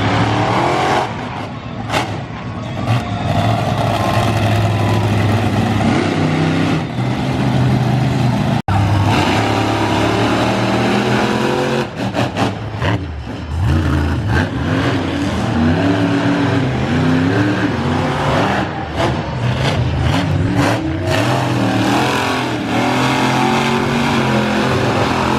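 Monster truck engines running loud and revving, their pitch rising and falling repeatedly, with a brief break about nine seconds in.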